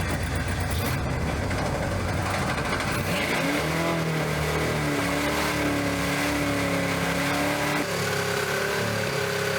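Worn 351 V8 running hard with its throttle zip-tied open, being deliberately run to destruction. About three seconds in the pitch climbs and then holds high and steady, with a slight dip near the end.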